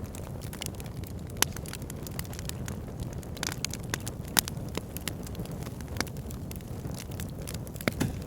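Backyard fire pit burning, with a steady low rumble of flame under irregular crackling and sharp pops.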